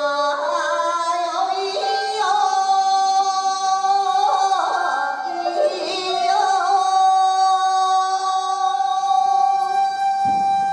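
Female Japanese folk (min'yō) singer drawing out the boat song's closing phrase in an ornamented melisma, the pitch wavering and stepping, then settling on one long held note from about six seconds in.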